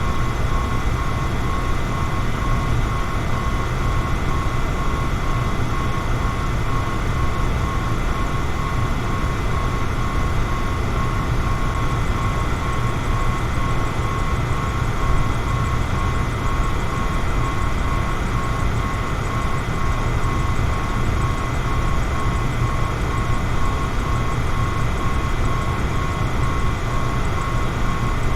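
Electric fan running steadily: a constant low whooshing hum with a faint high whine from the motor.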